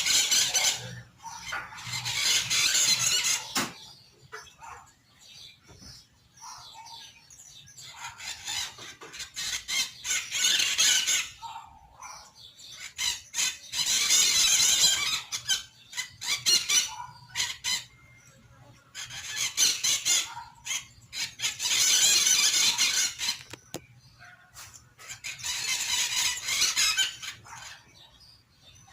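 A courting pair of maritaca parrots screeching in harsh bouts of two to three seconds each, with short quiet gaps between them.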